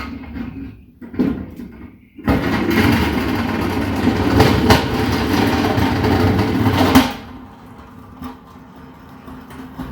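A loud, noisy mechanical rumble starts suddenly a couple of seconds in and cuts off about five seconds later, with a few knocks through it.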